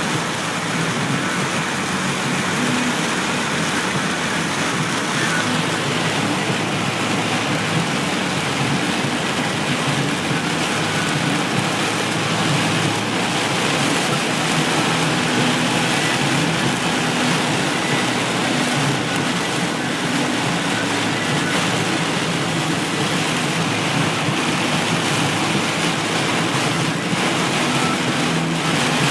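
Heavy rain falling steadily, a dense even hiss, with a low steady hum underneath.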